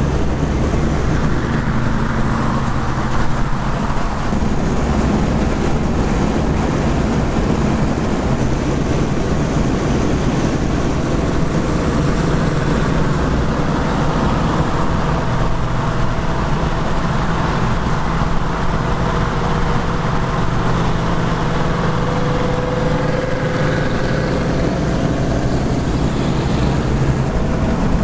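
Classic muscle car cruising at steady speed on the highway: a constant low engine drone with road and wind noise.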